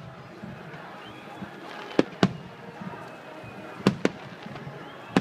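Aerial firework shells bursting overhead: sharp bangs in two quick pairs, about two seconds in and about four seconds in, with another bang at the very end.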